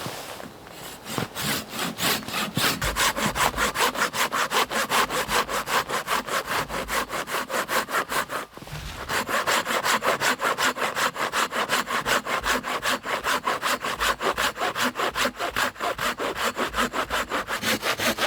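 Hand saw cutting through wood in quick, even back-and-forth strokes, pausing briefly about eight and a half seconds in before sawing on.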